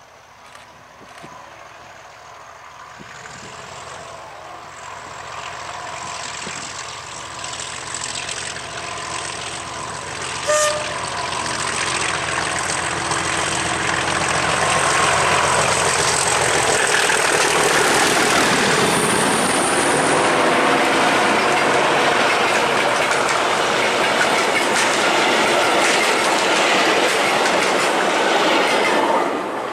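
A diesel locomotive hauling a passenger train approaches, its engine growing steadily louder. From about halfway it passes close by, and the coaches' wheels clatter over the rails loudly and steadily. The sound cuts off abruptly at the end.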